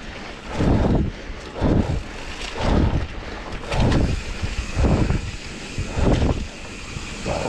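Air buffeting the microphone in regular low puffs, about one a second.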